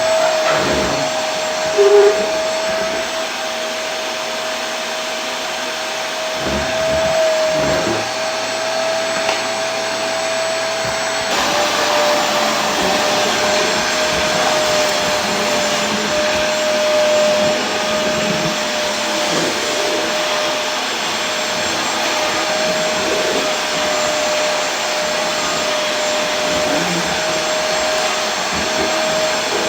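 Vacuum cleaner running steadily: a rushing air noise with a constant motor whine. The whine steps slightly lower in pitch about eleven seconds in, and a brief short tone sounds about two seconds in.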